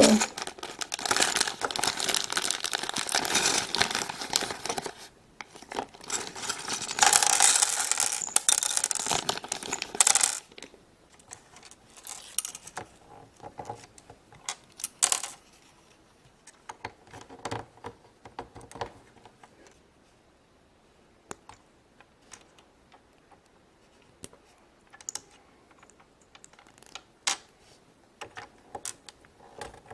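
Plastic wrapping crinkling and tearing for about the first ten seconds, then scattered light clicks and clatters of small plastic Lego pieces being handled and set down.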